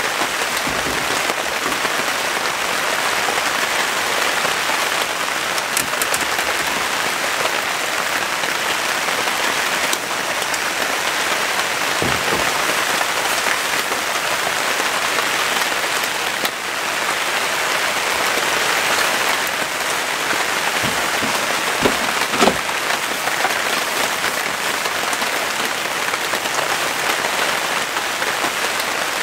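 Heavy rain falling steadily, a dense even hiss, with a few louder single drops striking now and then.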